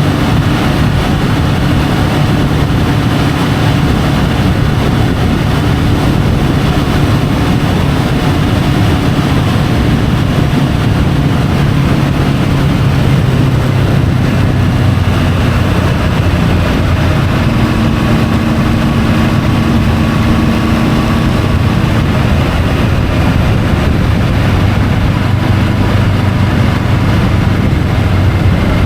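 Triumph Tiger 850 Sport's three-cylinder engine running under way, heard from the bike-mounted camera over a steady rush of wind and road noise. The engine note holds steady, then shifts lower and changes pitch a couple of times partway through.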